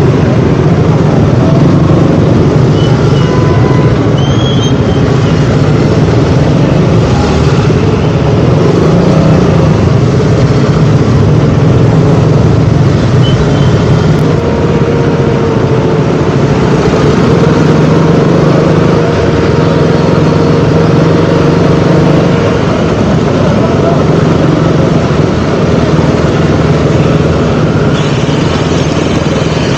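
KTM Duke 200's single-cylinder engine running as the motorcycle rides along at a fairly steady pace, its note staying mostly even with small rises and falls, with the sound of surrounding city traffic.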